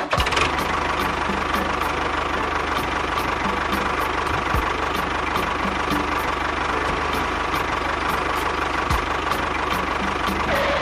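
A small engine running steadily with a fine, rapid throb. It starts and stops abruptly, with music playing faintly underneath.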